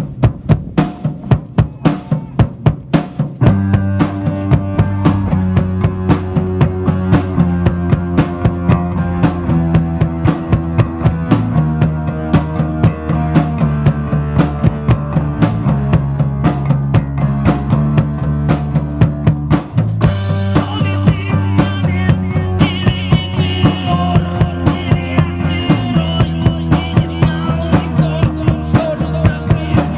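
Live rock band starting a song: the drum kit plays a steady beat alone, then the rest of the band comes in with sustained chords about three and a half seconds in. A higher melody line joins at about twenty seconds.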